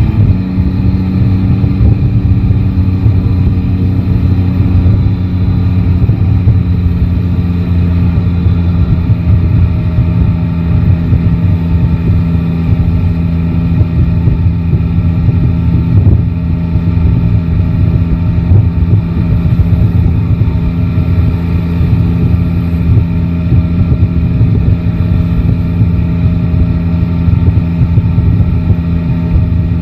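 Yamaha Tracer 9 GT's inline three-cylinder engine running. The revs drop right at the start, then the engine holds a steady speed with a low, even note.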